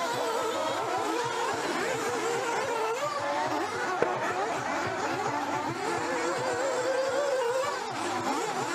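Several nitro RC buggy engines running together on the track, their overlapping engine notes rising and falling as the cars accelerate and brake. A brief sharp knock comes about four seconds in.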